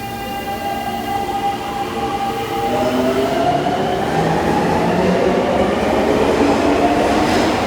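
Seibu electric commuter train pulling away: its VVVF inverter and traction motors give a whine of several tones that rise in pitch as it gathers speed. The tone pattern shifts about three seconds in, and the sound grows steadily louder.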